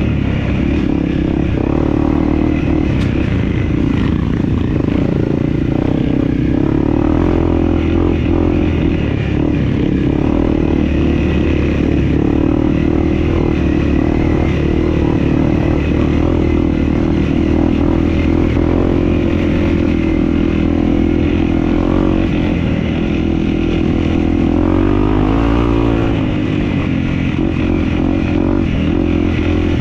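Dirt bike engine running steadily under way on an off-road trail. Its pitch rises and falls a couple of times near the end, and it runs a little quieter after that.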